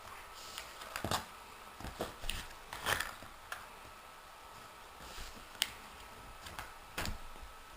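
A dog nosing about for hidden treats: scattered light clicks, taps and rustles at irregular intervals, the loudest around the middle and one sharp tick past halfway.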